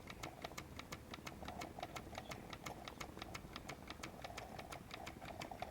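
Mamod SP6 miniature stationary steam engine with its double-acting cylinder running slowly on idle, giving a light, even ticking of about five or six beats a second.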